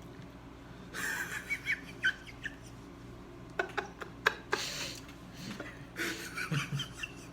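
Close-up eating and food-handling sounds: several short rustles and a handful of sharp clicks and mouth noises, over a faint steady room hum.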